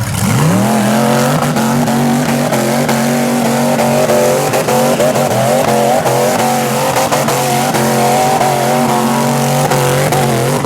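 Chevrolet 502 Ramjet big-block V8 in a rock bouncer buggy revving up in about half a second and held at a steady high rpm against its rev limiter, then let off near the end.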